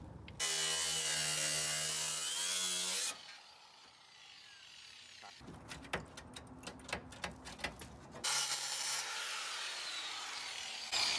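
A power cutting tool cutting through car fender sheet metal in two runs, with scattered clicks and knocks between them.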